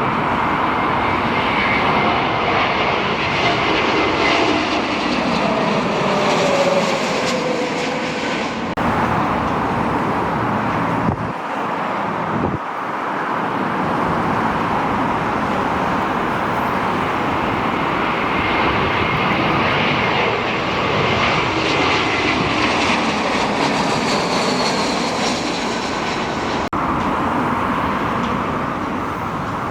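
Jet airliner engines running as aircraft pass low: a steady rushing noise with a faint high whine, and a tone that drops in pitch about seven seconds in as one goes by. The sound breaks off abruptly a few times.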